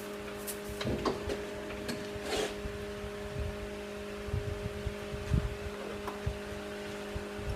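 Metal lathe running without cutting: a steady motor hum with scattered light clicks and knocks from the machine being handled.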